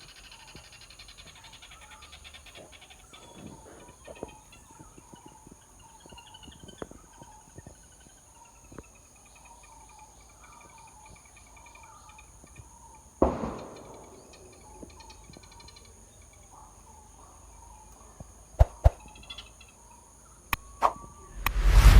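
Faint outdoor ambience of small bird chirps and insect buzzing. A sudden loud thump comes about 13 seconds in, and a few sharp knocks come near the end.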